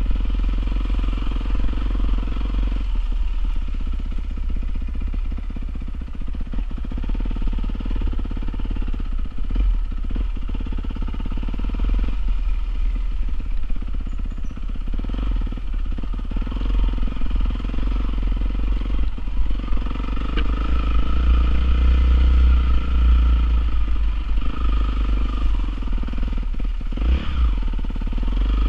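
Honda CRF450R dirt bike's single-cylinder four-stroke engine running continuously, its revs rising and falling, with the loudest stretch about two-thirds of the way through.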